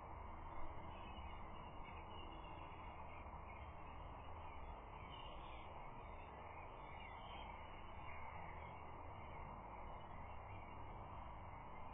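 Faint outdoor ambience from a nest-camera microphone: a steady hiss of background noise with faint distant bird calls, and one brief knock about half a second in.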